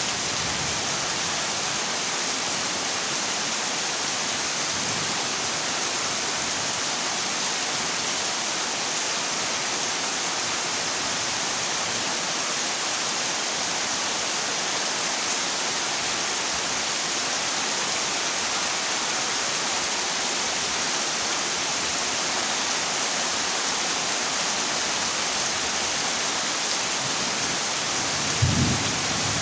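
Heavy rain drumming on a corrugated zinc roof as a steady, even hiss. A brief low rumble of thunder comes about a second before the end.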